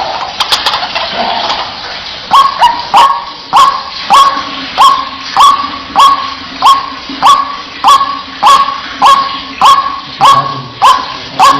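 White-breasted waterhen (ruak-ruak) calling: after a few irregular notes, a steady run of loud, harsh upward-swept 'wak' notes repeated about three every two seconds. A faint steady low hum lies underneath.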